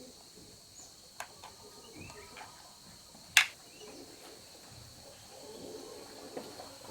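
Scattered light clicks and knocks from small tools or parts being handled, with one sharp, louder click about three and a half seconds in, over a steady high-pitched insect drone.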